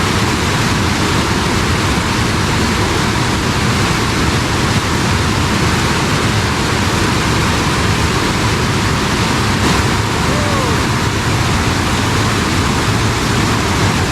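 Fast-flowing stream water rushing, a steady loud noise.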